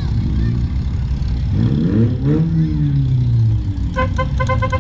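A junk race car's engine revving up and dropping back over a steady low rumble, followed near the end by a rapid run of short high beeps.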